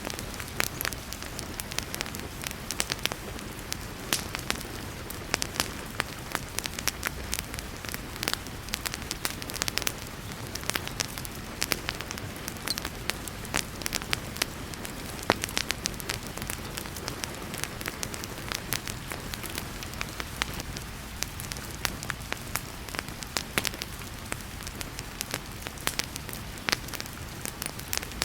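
Wood fire crackling in a fireplace, with many sharp irregular pops and snaps, over a steady hiss of heavy rain.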